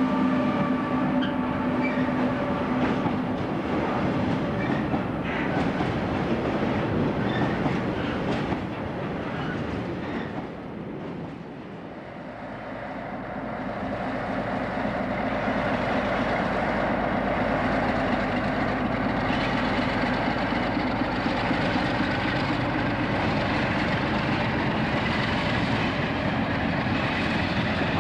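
A steady hum at several pitches from a Class 87 electric locomotive for the first few seconds. Then a diesel-hauled train of Cargowaggon vans rolls past, its wheels clattering over the rail joints in a steady rumble.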